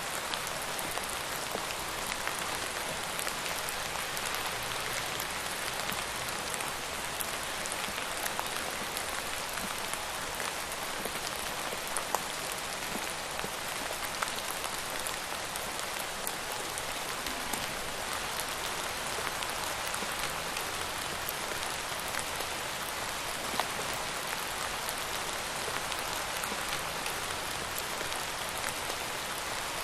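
Steady rain falling on a hard surface, an even hiss with scattered individual drop ticks and a few louder drips.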